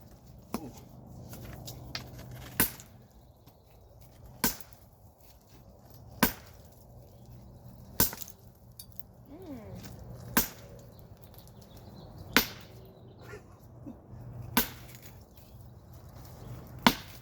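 Sledgehammer blows striking wood, about eight heavy strikes roughly two seconds apart, each a sharp crack.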